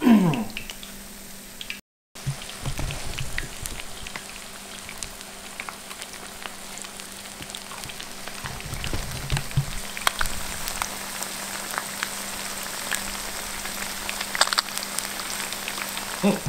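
Beer-battered panfish fillets deep-frying in oil in a cast iron skillet: a steady sizzle full of small crackles and pops.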